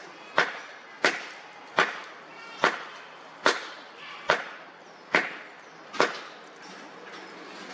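A regular series of sharp knocks or cracks, about eight strokes a little over one a second, each with a short ring after it, stopping about six seconds in.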